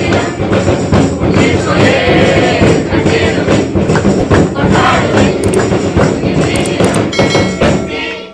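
A group singing a Christmas carol to a tambourine, loud and continuous, cutting off abruptly at the end.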